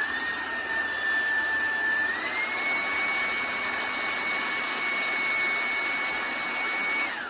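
Cordless handheld vacuum cleaner's brushless motor running with a high whine and rushing air, starting on the lower suction level and stepping up to the higher level about two seconds in. Near the end it is switched off and winds down.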